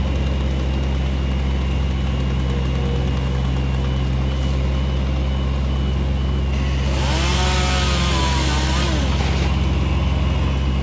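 A large engine idling steadily with a deep, even hum. About seven seconds in, a rush of hiss with a wavering whine rises over it for a couple of seconds, then fades.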